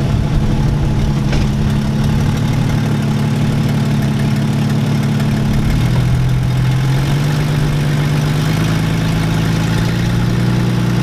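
Jeep Grand Cherokee engine running with its exhaust cut off, under load as the Jeep pulls against a tow strap tied to a tree. Its pitch dips about six seconds in, then slowly climbs over the last few seconds.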